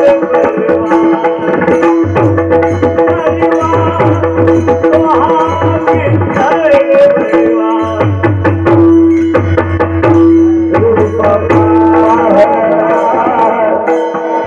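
Devotional music with pakhawaj drumming, frequent sharp strokes and deep bass strokes, under a steady held drone note and a wavering melodic line.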